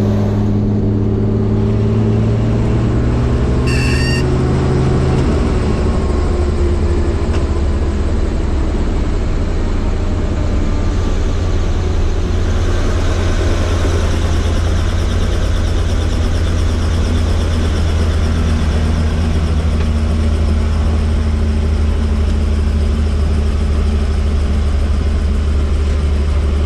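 Helicopter running, a loud steady drone of rotor and turbine with a low hum that drops slightly in pitch about five seconds in. A brief electronic beep sounds near four seconds.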